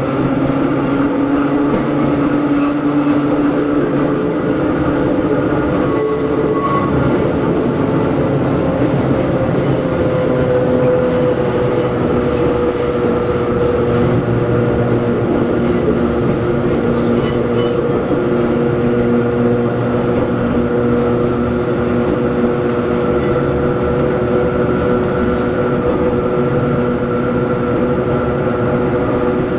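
Hakone Tozan Railway Moha 1 electric railcar No. 106 running, its nose-suspended SE121-A traction motors and gears giving a steady whine over the rumble of the wheels. The whine shifts a little in pitch during the first few seconds, then holds steady.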